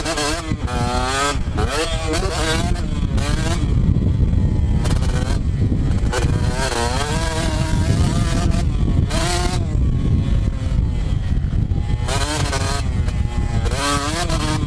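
Two-stroke motocross bike engine revving hard and easing off again and again, its pitch rising and falling every second or two.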